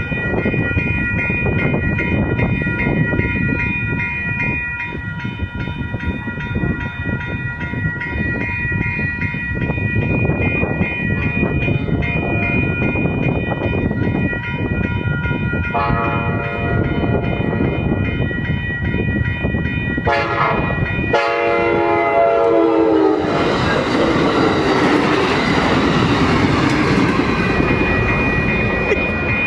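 Amtrak Capitol Corridor passenger train approaching and passing a grade crossing, with the crossing bells ringing steadily throughout. The train horn sounds from about 16 s, loudest from about 20 to 23 s, then the train rushes past with wheel and rail noise.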